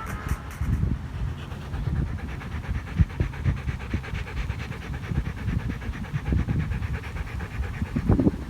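Dog panting rapidly and steadily.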